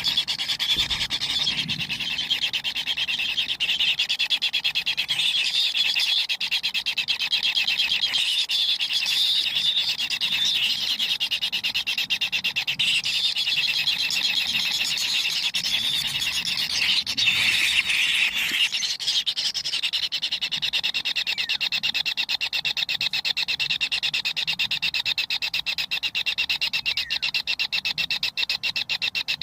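Kingfisher chicks giving a continuous, rapid rasping begging call, slightly louder about two-thirds of the way through.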